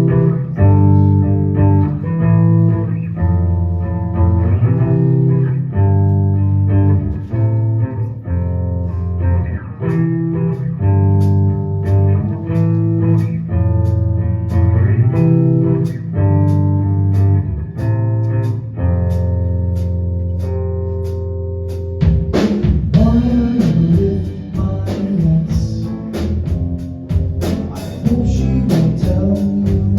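Band music: guitar chords over bass and drums, with fast cymbal ticks joining after several seconds. About 22 seconds in, a cymbal crash brings in a singer's voice.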